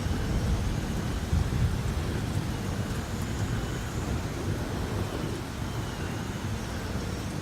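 Rain falling with thunder rumbling steadily underneath, a continuous thunderstorm.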